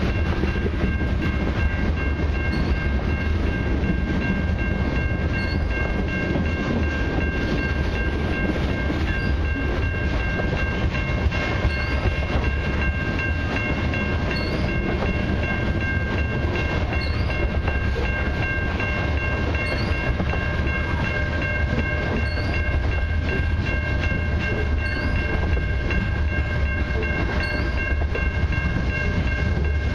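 Freight cars, mostly covered hoppers and tank cars, rolling steadily past on a long CN freight train. Their wheels rumble and clack over the rails, with a steady high-pitched tone over the rumble.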